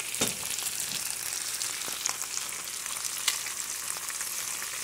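Potato slices and onion rings sizzling in hot oil in a frying pan: a steady hiss with a few sharp pops, the loudest about three seconds in.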